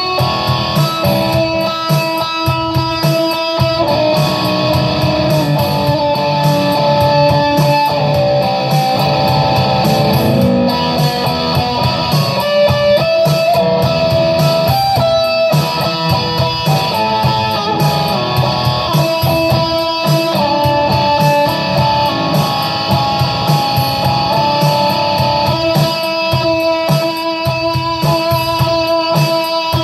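Electric guitar playing improvised lead lines of single notes, some held for a second or more.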